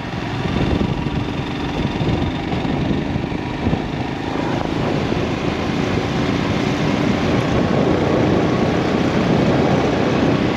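A motorcycle running steadily at road speed, its engine mixed with heavy wind rush over the microphone.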